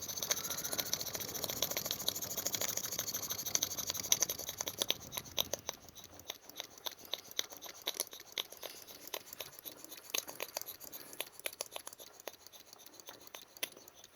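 Small live-steam model engine winding down as it is shut off: rapid clicking with a steady hiss of steam, thinning out from about five seconds in to slower, irregular ticks as the hiss fades.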